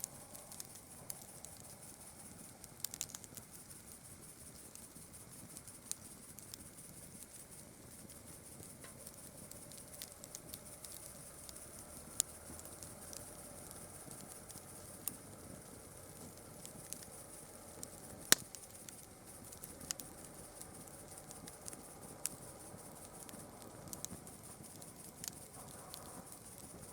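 Campfire crackling: irregular sharp pops and snaps from burning wood, the loudest about two-thirds of the way through, over a steady high-pitched hiss.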